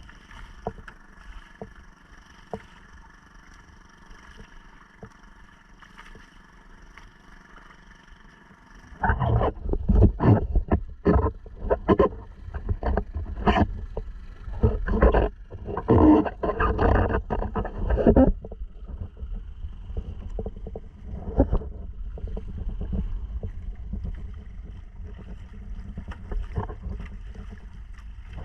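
Small Honda 2.3 outboard motor on a kayak running at a steady note; about nine seconds in, loud irregular low buffeting and splashing noise swamps it for several seconds, then eases off.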